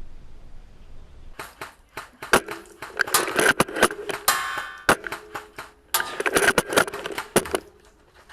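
Airsoft gunfire: rapid sharp cracks and clicks in two clusters of bursts, with one fast run of shots in the middle.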